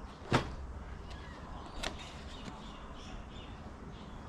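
Parts of a dent repair kit being handled: a sharp click or knock, then a smaller one about a second and a half later and a faint tap after that, over low background hiss.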